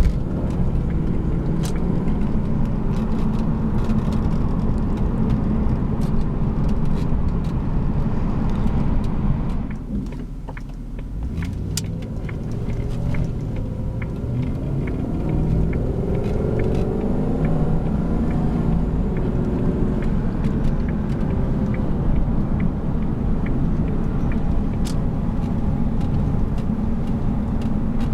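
1997 Jaguar XK8's 4.0-litre V8 running while the car is driven. About ten seconds in the sound briefly drops away, then the engine pitch climbs as the car accelerates.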